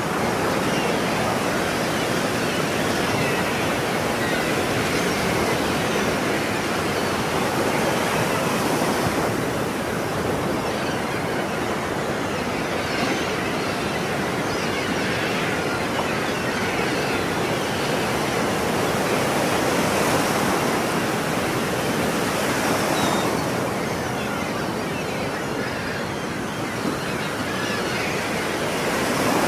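Ocean surf washing ashore, a continuous rush of breaking water that swells and eases gently in loudness.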